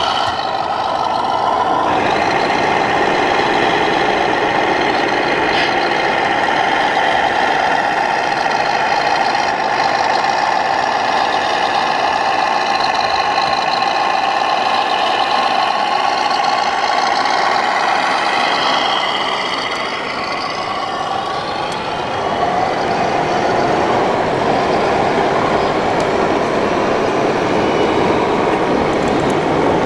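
Diesel truck engine sound from 1/14-scale RC model trucks, running steadily at idle, with a brief dip in level about two-thirds of the way through.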